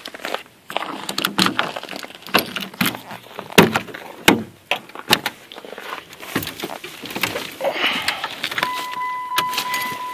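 Clicks, knocks and rustling of keys being handled and someone getting settled in a pickup's cab before a cold start, the engine not yet running. Near the end a steady, high electronic warning tone begins and holds.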